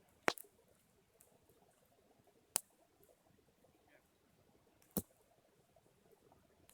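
Campfire crackling: three single sharp pops from the burning wood, a couple of seconds apart, over a faint background.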